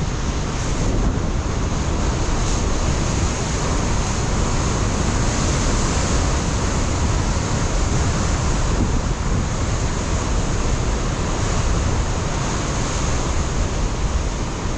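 Ocean surf crashing against a rocky shore, a steady wash of breaking waves, with strong wind buffeting the microphone as a low rumble.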